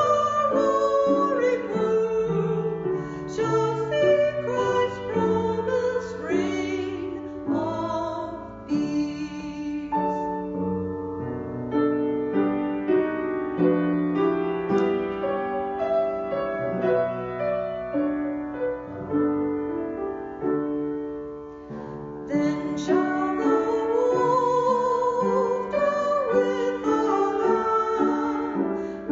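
Piano music, slow and classical in style, with a melody line above it. The sound thins out around twenty seconds in, then comes back fuller about two seconds later.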